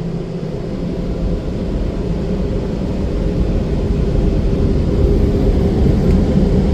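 Premier car-wash dryer blowers running: a steady rush of air with a low hum, growing slowly louder as the drying cycle gets under way.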